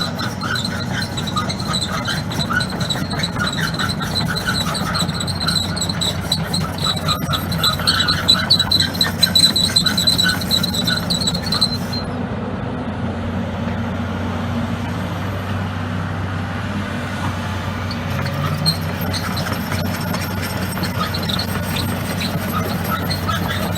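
Kobelco 235SR tracked excavator working, its diesel engine running steadily under load with a high, wavering squeal over it that cuts off abruptly about halfway through; the engine carries on afterwards.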